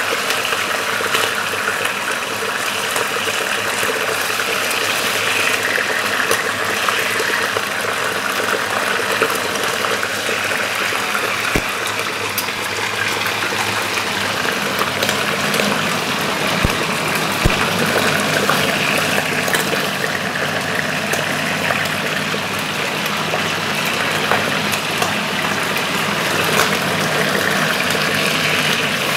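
Calf liver frying in olive oil in a frying pan: a steady sizzle with a few sharp pops.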